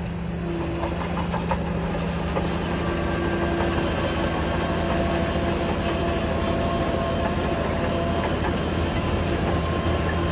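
Shantui DH17C3 crawler bulldozer's diesel engine running steadily under work, with the clatter of its steel tracks.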